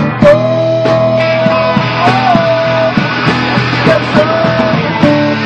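Live rock band playing, with electric guitars and drum kit; a lead line holds a long note that bends up and back down, then a shorter held note follows.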